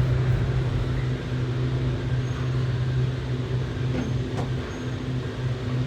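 Steady hum and rumble of a cable car cabin travelling along its line, heard from inside the cabin, with a constant low drone and a faint click about four and a half seconds in.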